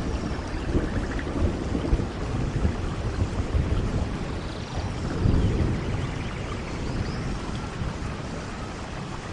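Rainforest ambience: steady rain falling, with low rumbling swells in the background and a few faint, short high calls.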